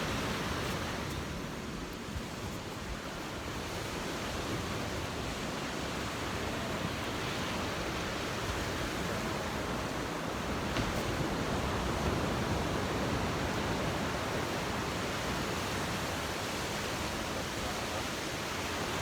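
Ocean surf washing on a sandy beach: a steady wash of noise that builds slowly, loudest around the middle.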